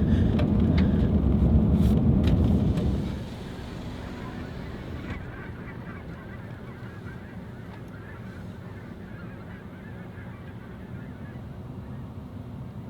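A large flock of snow geese calling, a dense continuous honking chatter. For the first three seconds a loud low rumble covers it, then drops away suddenly.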